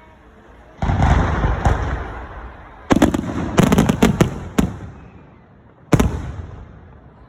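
Fireworks exploding: a loud bang about a second in, a quick cluster of sharp cracking bangs around three to four and a half seconds, and one more bang near the end, each trailing off in a rumbling echo.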